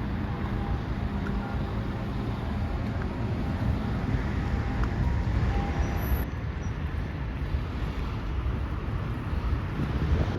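Steady outdoor city noise with a heavy low rumble, like passing traffic; the hiss on top thins out about six seconds in.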